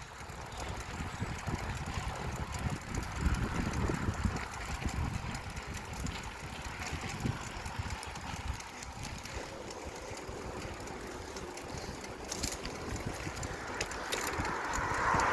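Wind buffeting the microphone and road noise from a moving bicycle, with faint scattered clicks. Near the end a louder rushing noise builds up.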